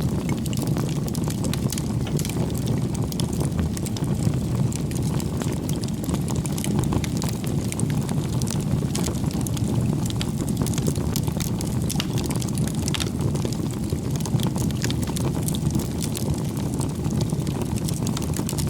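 Bonfire of firewood burning: a steady low rush of flames with frequent small crackles and pops throughout.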